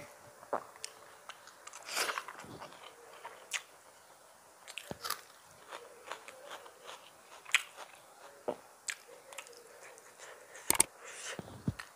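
Close-miked eating by hand: chewing and wet mouth sounds of a mouthful of masala rice and omelette curry, with irregular short clicks and smacks, the loudest near the end.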